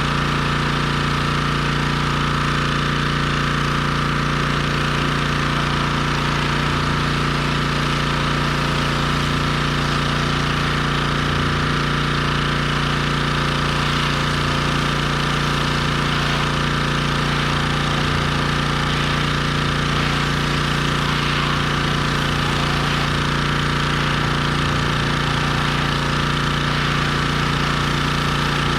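Pressure washer's small engine running at a steady speed, unchanging throughout.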